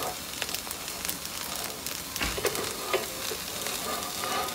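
A bánh xèo (Vietnamese crispy rice-flour crepe) sizzling in a nonstick wok, a steady faint hiss with scattered sharp crackles. It is frying in the fat released by its coconut-milk batter, with no oil added.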